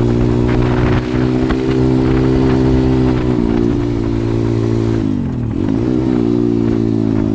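140cc pit bike's single-cylinder four-stroke engine running at steady revs while riding; a little after three seconds the pitch eases slightly, and about five seconds in the revs drop sharply as the throttle closes, then pick up again.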